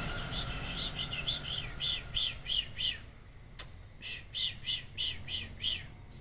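A small bird chirping in a quick run of short, downward-sweeping chirps, about three a second, with a break near the middle that holds a single click.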